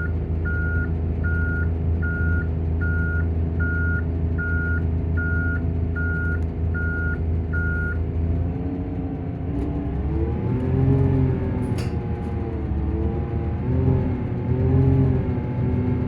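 Volvo Plaxton bus's reversing alarm beeping at an even pace over the steady run of its diesel engine and cooling fan. The beeping stops about halfway through, and then the engine note rises and falls several times as the bus is driven.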